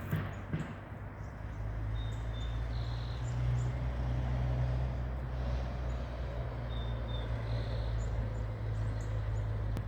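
Low, steady engine rumble of a passing or nearby motor vehicle, swelling a few seconds in and then holding level before cutting off abruptly near the end.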